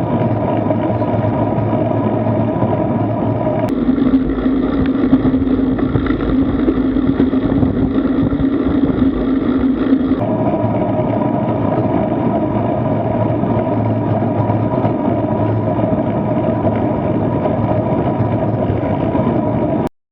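Steady rumble of wind and road noise picked up by a bicycle-mounted action camera while riding. It changes abruptly about four seconds in and again about ten seconds in, and cuts off just before the end.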